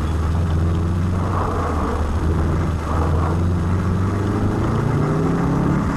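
Rally car's engine running hard on a special stage, heard from inside the cabin, its note climbing near the end as it revs up.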